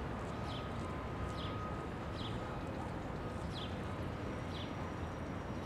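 Outdoor ambience: a steady low background rumble, with a bird repeating a short, high, falling chirp about once a second.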